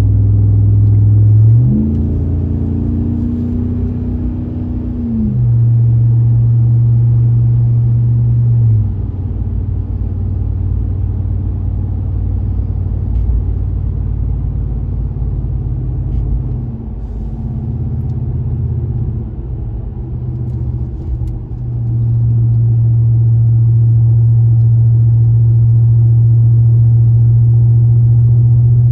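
Exhaust drone of a 2019 Ram Rebel's 5.7 L Hemi V8 through a moderate muffler and resonator delete, pulling up an incline. The note rises in pitch about two seconds in, drops back a few seconds later, eases off for a stretch, then settles into a loud, steady drone for the last several seconds.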